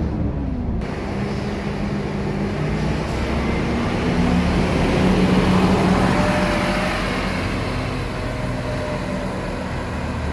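Scania K230UB bus's diesel engine running while the bus is under way. Its pitch drops in the first second, then holds steady, growing louder about five seconds in and easing off toward the end.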